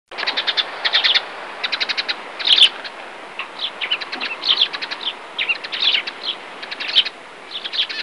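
Small birds chirping, many quick series of short high notes overlapping, over a steady background hiss.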